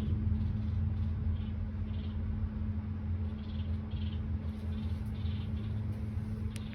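Small birds chirping faintly, short high chirps about every half second, over a steady low hum. A quick falling chirp comes near the end.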